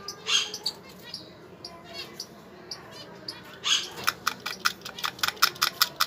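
Small caged pet birds chirping and chattering, with a louder call near the start and a fast run of sharp chirps in the last two seconds.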